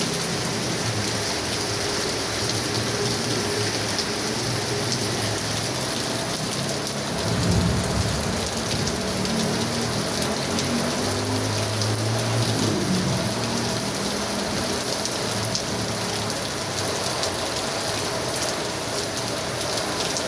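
Heavy rain falling steadily, with a short low rumble about seven and a half seconds in.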